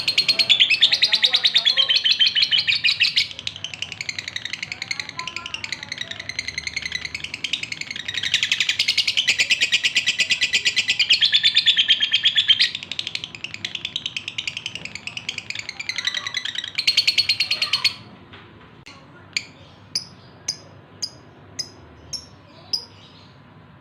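Male lovebird in breeding condition calling for a female: long spells of rapid, high-pitched chattering song that rise and fall in loudness. Near the end it changes to single sharp chirps, about two a second.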